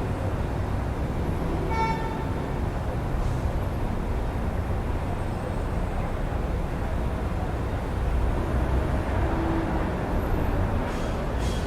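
City street traffic: a steady low rumble of passing cars, with a brief horn toot about two seconds in and one vehicle passing louder around eight seconds in.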